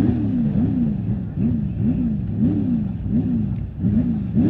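Rally truck engine revving hard in repeated surges, its pitch climbing and dropping about every half second to second as the throttle is worked over rough ground.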